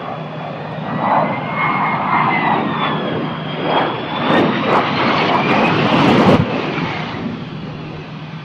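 Aircraft engines passing low overhead: a turbine whine that glides up and down in pitch over a growing rush of engine noise, loudest about six seconds in, where it drops off sharply.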